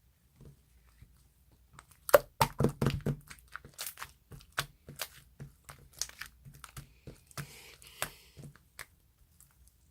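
A run of sharp, irregular cracks and crinkles, densest about two to three seconds in and then sparser, like something being crumpled or handled.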